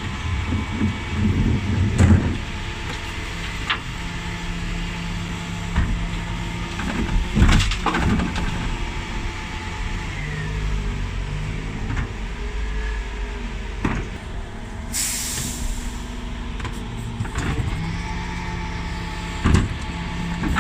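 Dennis Elite 6 bin lorry running while its Terberg bin lift works, the engine holding a steady note. Sharp knocks come every few seconds, and a short hiss of air sounds about fifteen seconds in.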